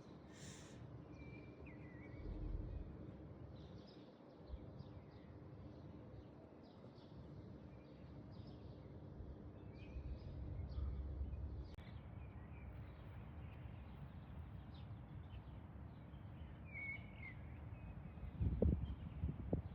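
Faint, scattered bird chirps over steady low outdoor background noise, with a few soft thumps near the end.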